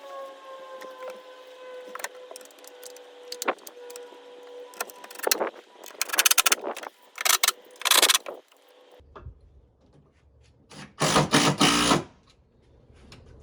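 Bolts being driven down with a power driver in several short, loud bursts, among clicks and knocks of tools and hardware; a faint hum slowly falls in pitch during the first few seconds.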